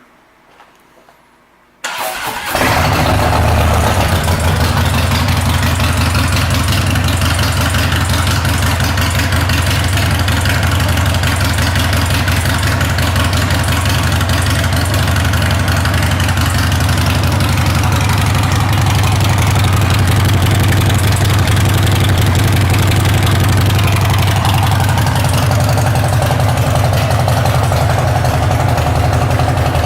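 A 2016 Harley-Davidson Street Glide's V-twin engine, fitted with an aftermarket chrome exhaust and an Arlen Ness air intake, is started about two seconds in, catches at once and then idles steadily.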